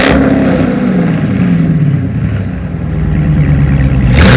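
Dodge Challenger's Hemi V8 through a modified exhaust: the revs fall away after a blip, settle, then a quick sharp rev near the end.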